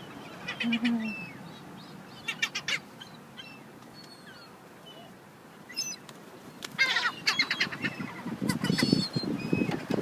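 Seagulls calling in several bursts of short, repeated harsh cries. Near the end, a burst of low rustling noise runs under the calls.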